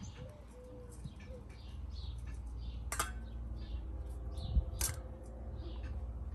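Faint small-bird chirps repeating every half second or so, with two sharp clicks about three and five seconds in as the foil pouch of powder is handled.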